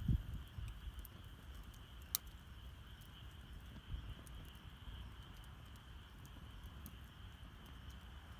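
Wood campfire crackling, with scattered small snaps and one sharper pop about two seconds in. A steady high-pitched chirring of night insects runs behind it.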